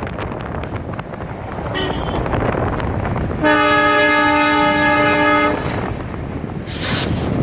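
Train horn sounding one steady blast of about two seconds, over the continuous rushing noise of the moving train.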